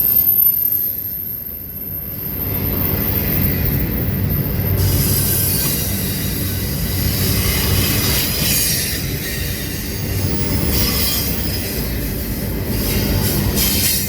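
A train rolling past close by: a steady low rumble of the cars and wheels on the rails, with a higher, harsher metallic wheel noise and irregular clatter joining in from about five seconds in.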